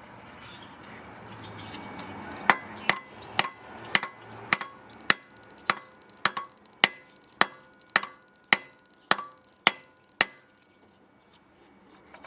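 Hammer striking metal about fifteen times at an even pace of roughly two blows a second, each blow ringing briefly, during work on a stuck cylinder head bolt. Before the blows start, a hiss-like rush of noise slowly grows louder.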